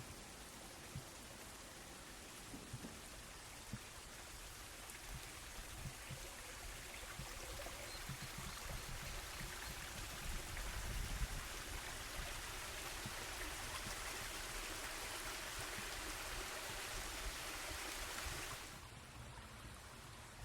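Water of a small waterfall and its stream rushing, growing louder through the first half and dropping off suddenly near the end, with scattered low thumps.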